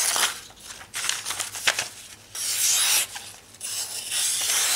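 A knife blade drawn in repeated rasping strokes, about four in a row with short pauses between, as its edge is tested for sharpness.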